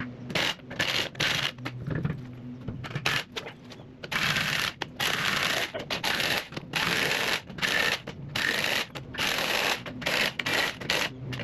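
Impact wrench run in a long series of short bursts, spinning lug nuts onto a truck's rear wheel.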